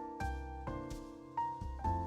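Soft background piano music, a few notes struck about every half second.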